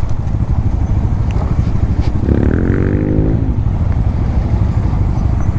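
Bajaj Dominar motorcycle's single-cylinder engine running steadily as it rides down an off-road trail, with a dense low rumble. A brief rising pitched tone cuts in about two seconds in and fades just over a second later.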